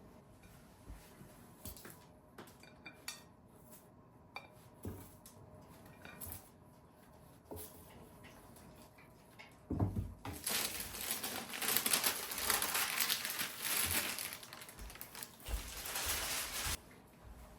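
Light clicks and knocks of handling at a worktop, then from about ten seconds in some six seconds of dense, crackling rustle that stops sharply.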